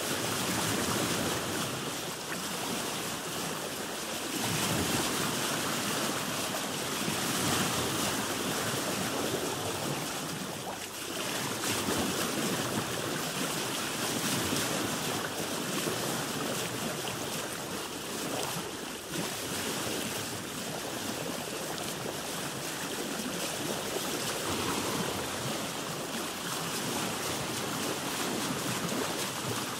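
Sea water washing and splashing around a boat: a continuous rush of waves with small rises and falls in level.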